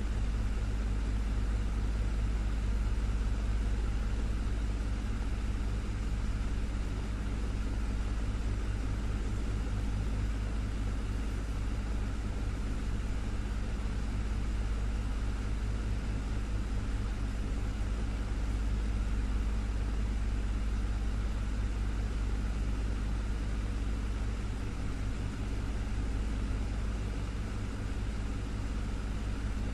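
Electric desktop fan running steadily: a constant low hum from the motor under an even whoosh of moving air.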